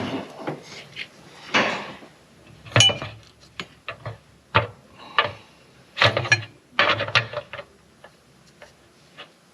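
Metal tools and engine parts clinking and clanking as they are handled and set down, about half a dozen sharp knocks spread over several seconds, then quieter toward the end.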